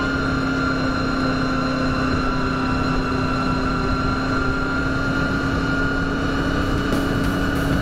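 Honda VFR Interceptor V4 motorcycle engine running at a steady cruising speed, with wind rush over it. The pitch holds steady throughout.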